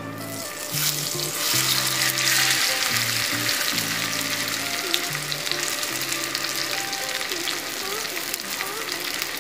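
Marinated whole quail dropped into hot oil in an iron kadai, the oil sizzling and spitting as they deep-fry. The sizzle jumps up sharply about a second in as the birds go into the oil, then holds steady, with background music underneath.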